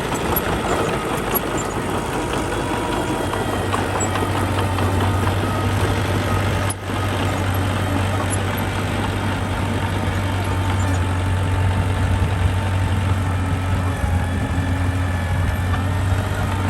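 Diesel engine of heavy earthmoving machinery running steadily with a constant low drone, with a brief break about seven seconds in.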